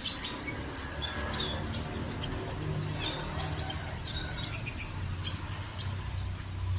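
A sunbird chirping rapidly: a string of short, sharp, high notes several a second, over a steady low hum.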